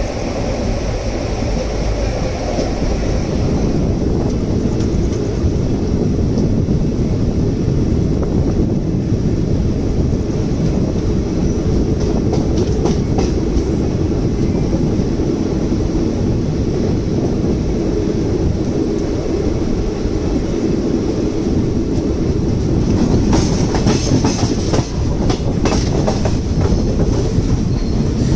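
Moving Indian Railways passenger coach running on the track: a steady rumble of wheels on rails, with a quicker run of sharp clacks near the end.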